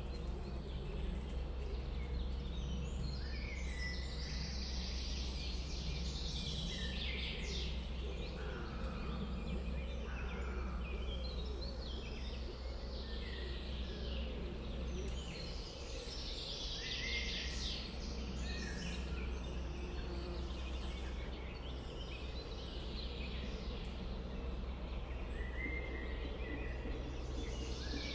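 Several wild birds singing, overlapping, with short, varied phrases throughout, over a steady low background rumble.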